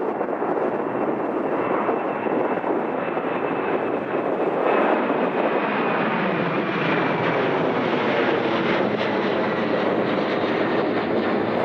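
Jet airliner's engines: a steady rushing roar with a faint high whine that slowly falls in pitch.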